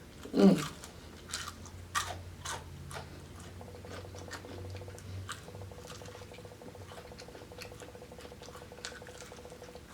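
A person chewing fried chicken close to the microphone, with irregular wet mouth clicks and smacks; a louder smack about half a second in. A faint steady hum starts about three and a half seconds in.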